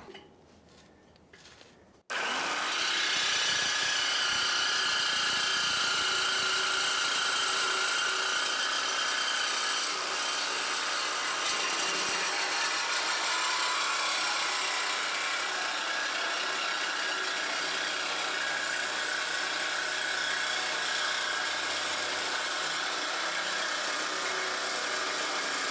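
Reciprocating saw cutting through the stock exhaust pipe. It starts abruptly about two seconds in and then runs steadily.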